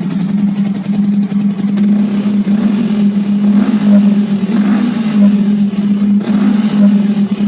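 Yamaha R15 VVA's single-cylinder engine running steadily through a Tridente three-mode exhaust set to its quiet silent mode, a little louder for a few seconds in the middle.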